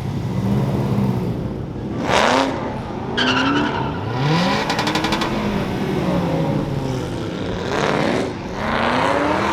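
Several car engines revving, their pitch climbing and falling as the cars pull away, with louder surges about two seconds in and again near eight seconds.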